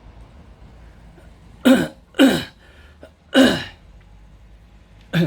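A man coughing close to the microphone: three short coughs in quick succession about two seconds in, then one more near the end, each dropping in pitch.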